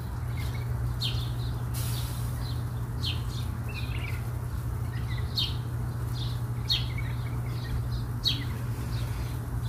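Small birds chirping repeatedly in the background, short high falling chirps about once a second, over a steady low hum.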